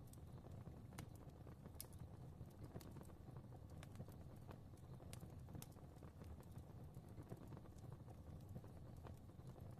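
Faint fire crackling: a low steady rumble of flames with irregular sharp crackles and pops.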